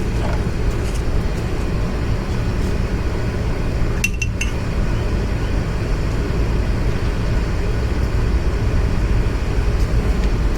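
A single sharp metallic clink of a hand tool against metal about four seconds in, over a steady low rumble.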